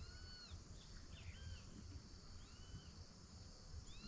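Faint dusk chorus of animal calls: short arched calls repeat about once a second, with a fast, high insect trill in the first half.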